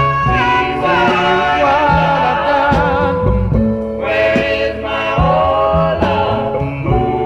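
Doo-wop vocal group singing a slow ballad with instrumental backing, voices holding long notes with vibrato.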